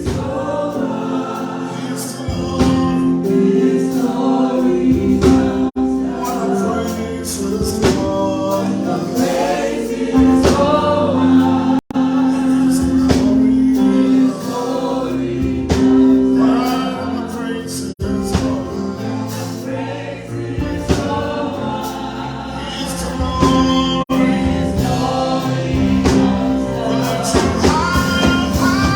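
Gospel music: a choir singing over steady held chords, with brief dropouts about every six seconds.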